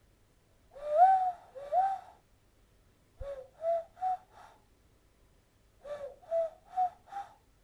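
Hand whistle blown into cupped hands across the thumb knuckles, giving a hollow owl-like hoot: two longer rising hoots, then two runs of four short notes that step up in pitch as the pinky is lifted to change the sound.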